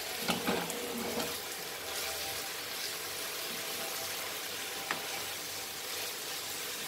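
Chicken pieces frying in oil with onions in a pan, a steady sizzle. A few light knocks come about half a second in, and one more about five seconds in.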